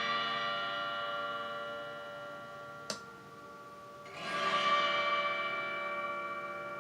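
Autoharp chords strummed twice, each swelling in and ringing out long through delay and reverb pedals. A sharp click comes just before the second chord.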